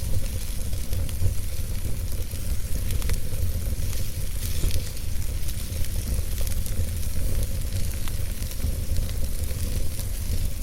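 Wood fire burning in a fireplace, with a steady low rumble of flames and frequent small crackles and pops from the burning logs.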